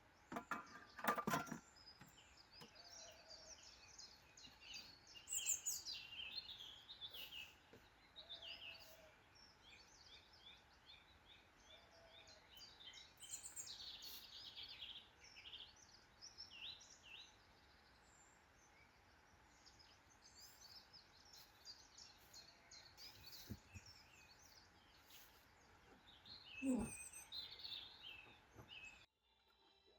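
Faint woodland birdsong: several small birds chirping and trilling over a soft steady hiss, with a sharp click about a second in and a brief lower sound near the end. The sound cuts off suddenly just before the end.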